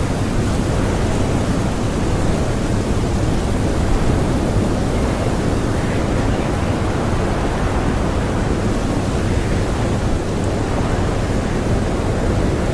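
Blizzard wind blowing hard and without a break, a dense, steady rushing that sits mostly low in pitch.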